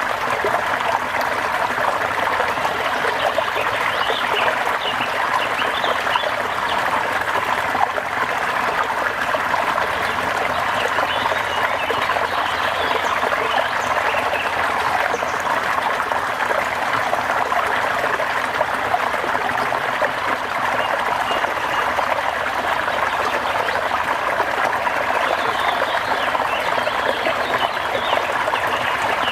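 Steady rain with running water, an even rushing hiss that does not change, with faint high chirps now and then.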